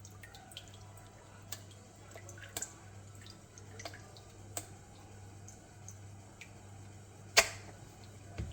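Scattered small clicks and drips as a wet Lego boat is handled, with one sharper click about seven seconds in, over a low steady hum.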